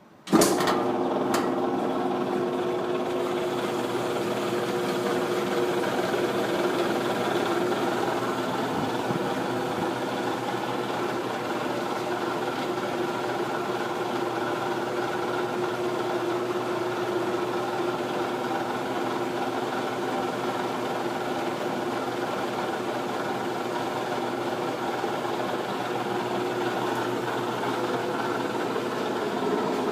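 Kenmore stackable washer in its spin cycle, running with a steady hum made of several held tones over a wide mechanical noise. It cuts in suddenly about half a second in. This is the unusual noise it makes while spinning.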